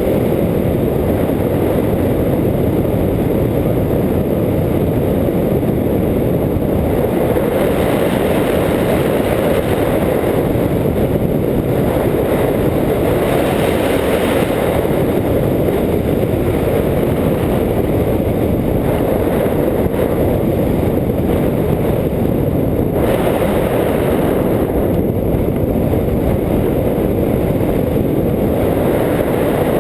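Steady wind rushing over the microphone of a hang glider in flight, a loud low rumble with no engine pitch in it.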